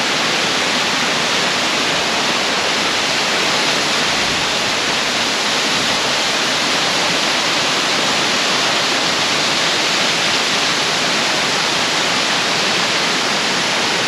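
Large waterfall rushing, a loud, steady, unbroken noise of falling water.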